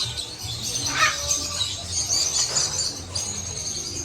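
Birds chirping in quick high notes, with one louder call about a second in.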